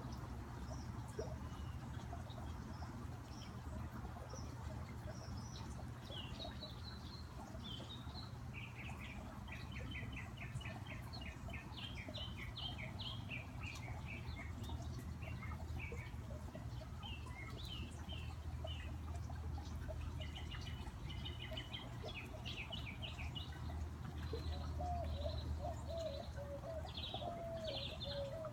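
Backyard songbirds chirping in quick repeated runs of high notes, starting a few seconds in and continuing, over the steady background of a garden fountain. A lower, wavering call joins near the end.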